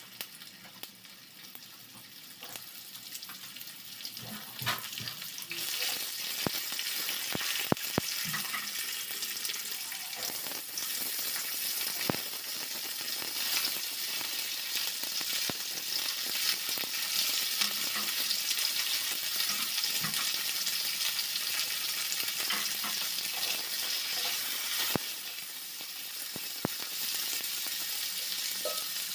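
Vegetables sizzling as they fry in hot oil in a wok, growing louder over the first few seconds. Occasional sharp clicks and knocks of utensils against the pan.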